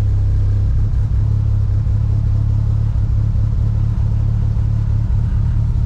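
Turbocharged Mitsubishi 4G63 four-cylinder of a DSM, fitted with GSC S2 camshafts and running on E85, idling steadily at about 1050 rpm while it warms up after a cold start.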